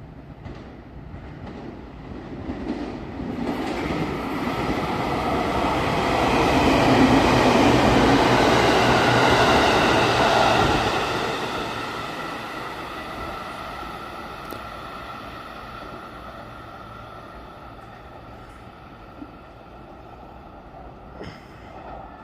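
JR Kyushu 783 series electric train passing through a station without stopping. It grows louder as it approaches, is loudest about halfway through, then fades away, leaving a steady whine as it recedes.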